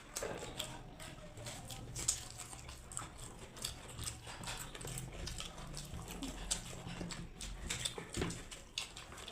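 People eating egg biryani fast: wet chewing and many irregular lip-smacking clicks.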